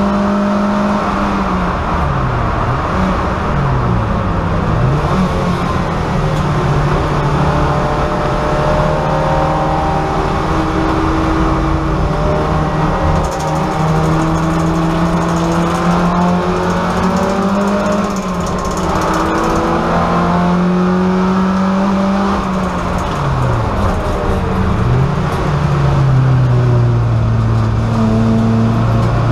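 VW Golf race car's engine heard from inside the stripped cabin, running hard at high revs. The revs fall sharply and climb again a few times about two to five seconds in and again near 23 seconds in, with long steady pulls in between.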